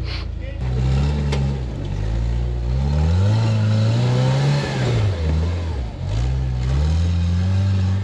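Off-road rig's engine revving up and down as it crawls over rocks. The revs climb about two seconds in, drop around five seconds, then pick up and hold near the end.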